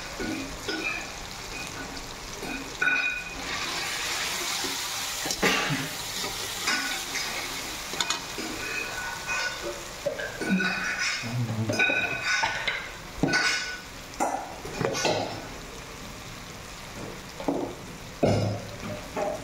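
Spiced tomato masala sizzling in a kadai while a spoon stirs it, scraping and clinking against the pan many times, some scrapes giving short high squeaks.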